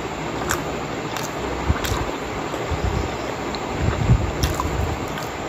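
Close-up chewing of pork momos (steamed dumplings) with the mouth closed, with a few short mouth clicks, over a steady hiss.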